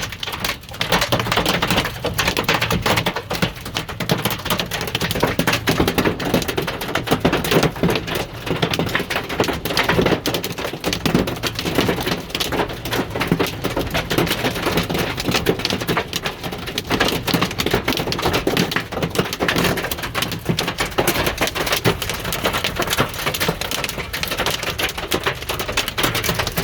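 Hailstones pelting hard surfaces in a dense, unbroken clatter of quick clicks and taps, mixed with heavy rain.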